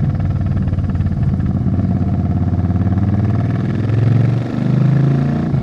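Suzuki Intruder 800 cruiser's V-twin engine running under way, picked up close to the bike. About four seconds in the sound dips briefly, then rises in pitch as the engine accelerates.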